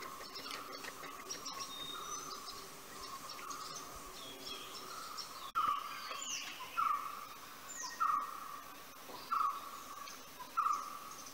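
Forest birds calling: scattered high chirps and falling whistles, and from about halfway in one bird repeating a short, loud call five times, about once every second and a quarter.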